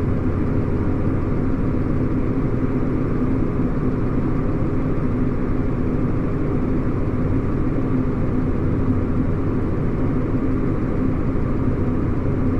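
Tractor engine running steadily at PTO speed, driving a grain cart's unloading auger, with an even, unchanging hum.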